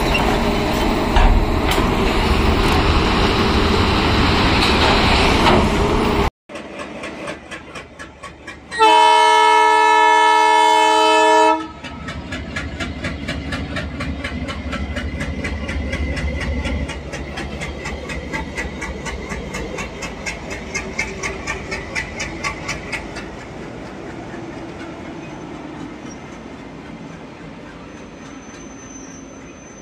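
An excavator runs and works among derailed wagons with a loud, rough machinery noise. After a sudden cut, a locomotive horn sounds one loud, steady blast of about three seconds, the loudest sound here. A train then passes with a steady clickety-clack of wheels over the rail joints that slowly fades.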